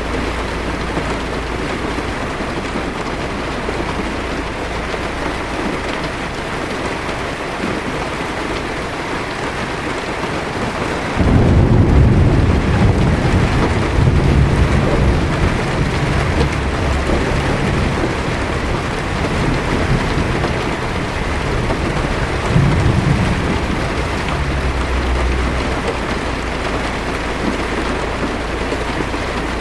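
Heavy rain falling steadily on a car's windshield and body. About a third of the way in, low thunder breaks in suddenly and rumbles on for some fifteen seconds, swelling again briefly, before fading back under the rain.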